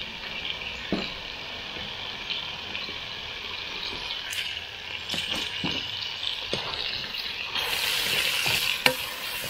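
Pork frying with ginger and garlic in a hot pan, a steady sizzle with a utensil stirring and knocking against the pan now and then. The sizzle grows louder and brighter about eight seconds in, and a sharp knock comes shortly after.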